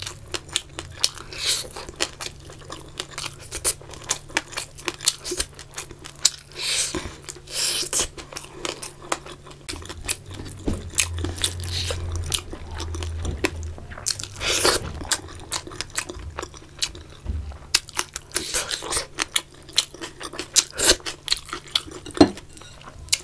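A person chewing and crunching food close to the microphone: fried fish and rice eaten by hand, with many irregular sharp mouth clicks and crackles.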